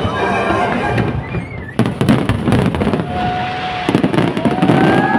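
Aerial fireworks going off in quick succession: a dense run of bangs and crackles, with a few thin whistling tones among them.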